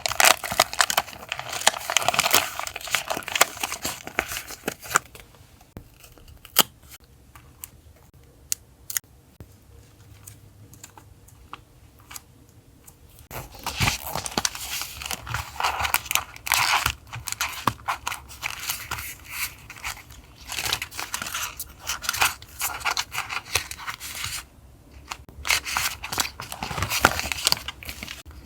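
Paper and stickers being handled: rustling, crinkling and tearing, giving way to a few sparse taps and clicks from about five seconds in, then dense rustling again from about halfway.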